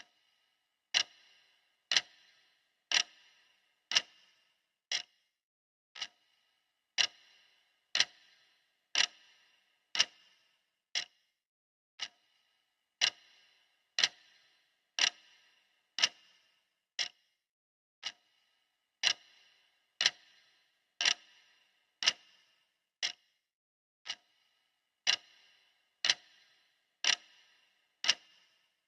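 Clock ticking steadily, one sharp tick a second, some ticks louder than others.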